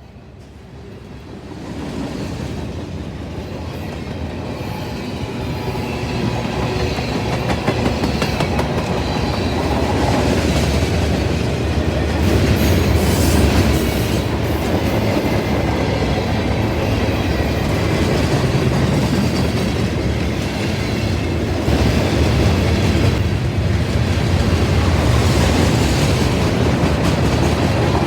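Norfolk Southern freight train rolling past, its wheels clacking over the rail joints. It grows louder over the first several seconds, then carries on steadily.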